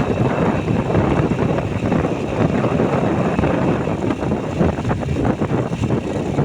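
Motorcycle riding along, its engine running under a steady, loud rush of wind buffeting the microphone.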